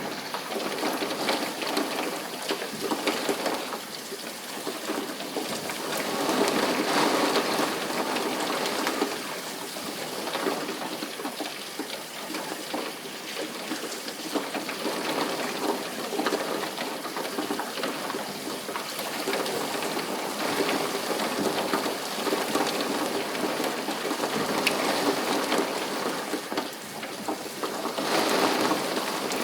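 Steady rain: a dense hiss scattered with many individual drop hits, rising and easing in loudness every few seconds.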